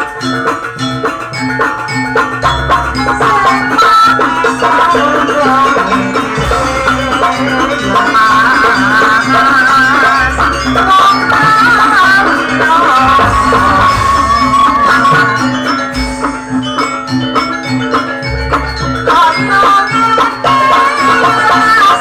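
Live traditional Banyuwangi ensemble music played loud, with ringing metal mallet percussion, a wavering high melody line, and low drum or gong strokes every few seconds.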